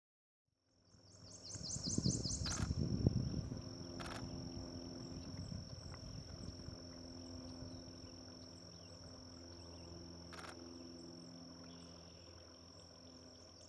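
Prothonotary warbler singing its song, a rapid series of about ten sharp, ringing, repeated notes near the start, and starting the series again at the very end. Under it runs a steady high-pitched drone and a low rumble, with a few short sharp clicks.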